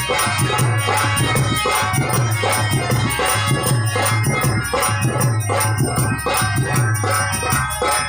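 Harmonium playing a sargam melody in sustained reedy notes over a steady percussion beat of about two strokes a second.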